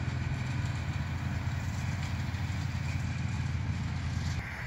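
Tractor running a round baler in a hay field, a steady engine drone with a haze of machine noise over it that thins a little near the end.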